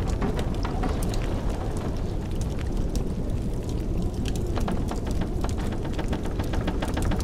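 Wood fire crackling and popping in a fireplace, irregular sharp snaps, over a steady low rumble of blizzard wind.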